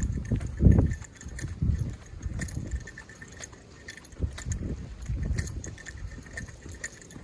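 Footsteps of a person walking at an uneven pace, each step a dull thud with light crunching clicks.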